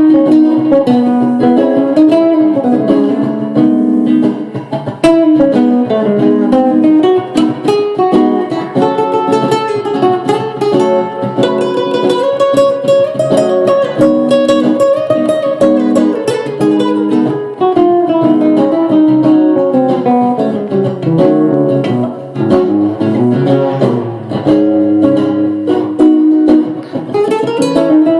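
Solo guitar improvisation: quick plucked notes running up and down in melodic lines over lower ringing notes.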